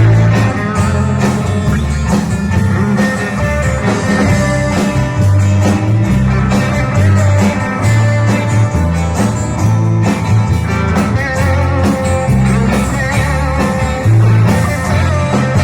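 Live band music: an instrumental passage with guitar over a moving bass line, loud and continuous.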